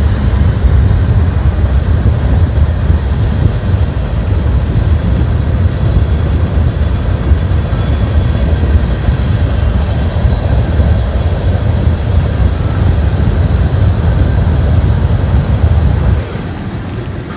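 CSX freight train rolling past close by: a loud, steady low rumble that drops off sharply near the end.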